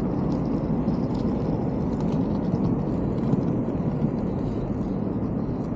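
Inline skate wheels rolling over parking-lot asphalt: a steady, even rumble.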